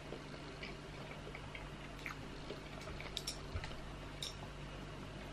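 Faint chewing of a mouthful of soft boiled potato close to a clip-on microphone, with scattered small wet mouth clicks and smacks.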